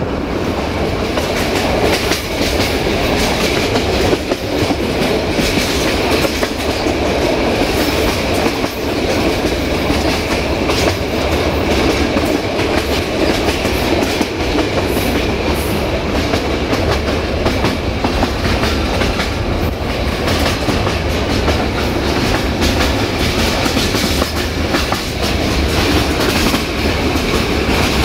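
Passenger train running along the line, heard from aboard a coach: a steady rumble of the carriage with irregular clatter of the wheels over the track.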